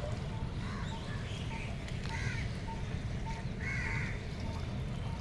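Birds calling several times, with short harsh calls, over a steady low rumble of wind and water.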